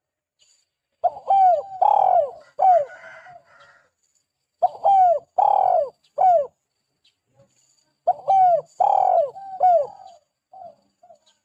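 Spotted dove singing vigorously: three cooing phrases a few seconds apart, each a run of several quick falling coos. Faint high chirps of a small bird sound behind it.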